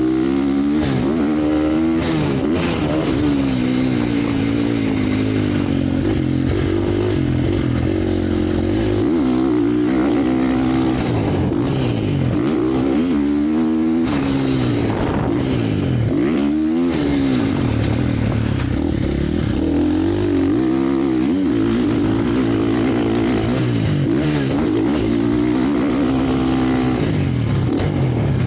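Motocross motorcycle engines running hard, their pitch rising and falling over and over as the throttle is opened and shut.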